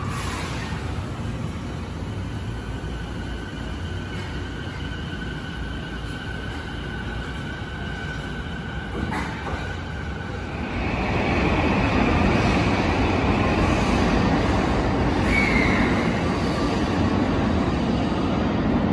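Steady hum on an underground station platform. From about eleven seconds in, a JR East E235-1000-series electric commuter train pulls in and grows louder, with a short squeal of braking wheels a few seconds later as it slows to a stop.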